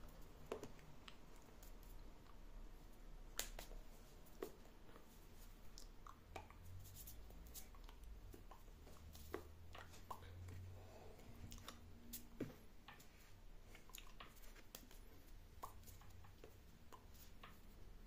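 Faint, irregular clicks and light taps, one or two a second, over quiet room tone.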